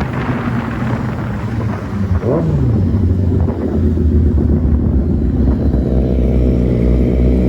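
Motorcycle engine running while riding: a steady low rumble that grows louder in the second half, with a brief change in engine pitch about two seconds in.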